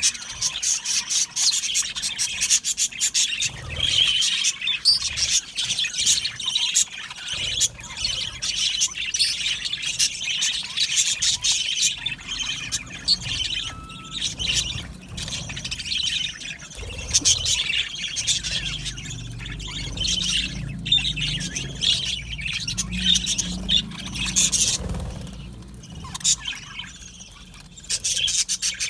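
A flock of budgerigars chattering and warbling: a dense, unbroken stream of high chirps with occasional squawks. A low rumble runs underneath for several seconds in the second half.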